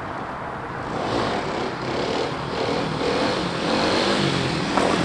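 Kawasaki KLX300 dual-sport's single-cylinder four-stroke engine revving hard, getting louder about a second in, its pitch rising and dipping through the rest, with a sharp click near the end.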